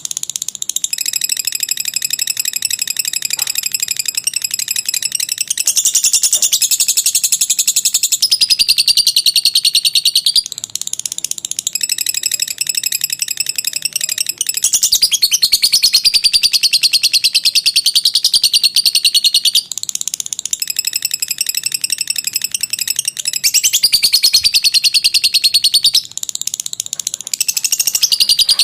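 Lovebird "ngekek" song: a long, very rapid, high-pitched chattering trill that runs in long bouts, broken by brief pauses about a third of the way in, halfway through, and near the end.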